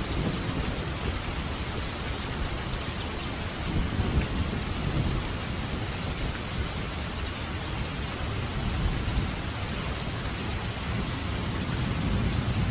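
Steady heavy rain falling on a roof, with low rolling thunder rumbles swelling about four seconds in and again near the end.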